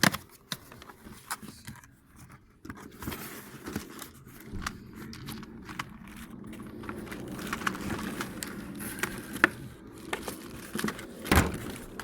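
Packaging and plastic parts being handled while a cordless vacuum is unboxed: crinkling and rustling with scattered clicks and knocks, and one louder knock near the end.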